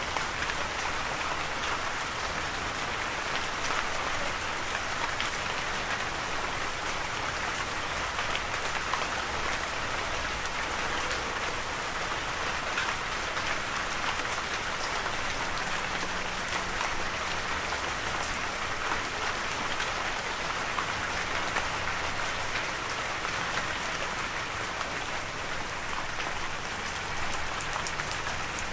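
Steady rain falling, with a dense even hiss and scattered individual drops ticking on a surface.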